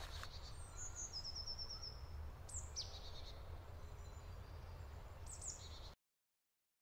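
Small forest birds calling faintly: a short trill of quick repeated high notes, then a few scattered high chirps, over a steady low rumble. The sound cuts off abruptly about six seconds in.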